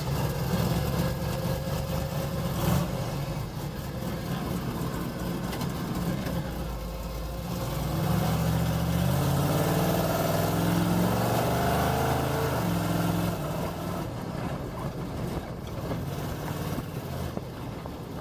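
Monster truck's small-block Chevy V8 engine running, with the revs climbing from about eight seconds in and easing off again a few seconds later as the truck pulls away.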